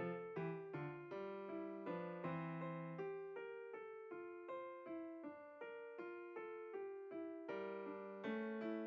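Background piano music: a steady stream of struck notes, two or three a second, each fading before the next.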